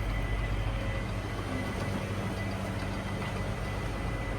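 An engine idling with a steady low hum and a thin, steady high whine over it.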